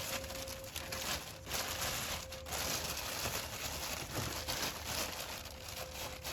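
Thin plastic bag crinkling and rustling as it is handled and wrapped over an alternator.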